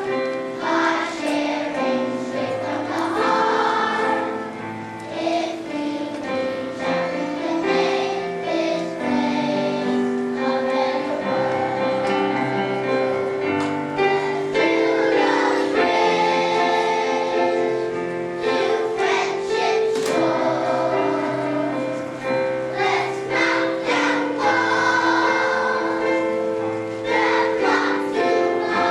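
Children's choir singing a song with instrumental accompaniment, the notes held and moving step by step.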